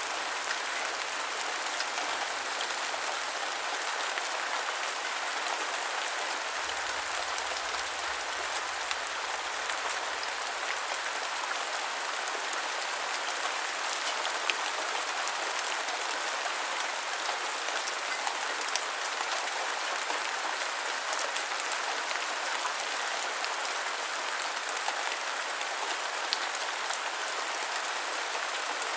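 Steady rain falling, an even hiss flecked with the sharp ticks of single drops striking a surface.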